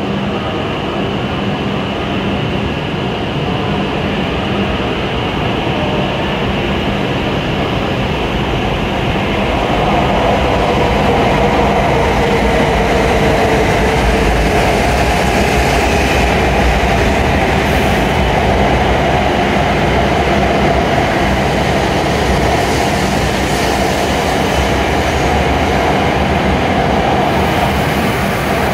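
W7 series Shinkansen train arriving at a station platform and slowing as its cars run past: a steady running noise that grows louder about ten seconds in, with a whine over it.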